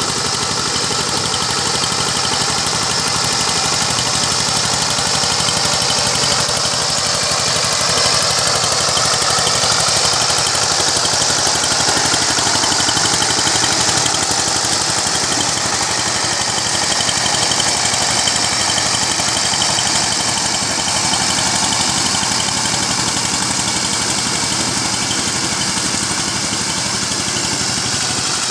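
Power tiller engine running steadily, its pitch rising and falling slightly around the middle.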